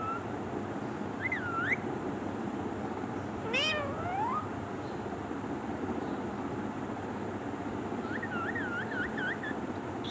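Pet parrot calling in short whistled notes: a rise-and-fall note about a second in, a long rising glide near the middle, and a quick wavering trill near the end.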